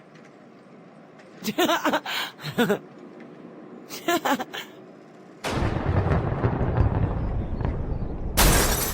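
Cartoon sound effect of a garage door being smashed: a loud rumbling crash begins about five and a half seconds in and lasts about three seconds, then a sharp, bright crashing burst near the end.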